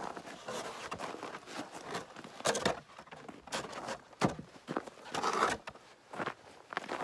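Footsteps crunching through deep snow, coming at an uneven pace.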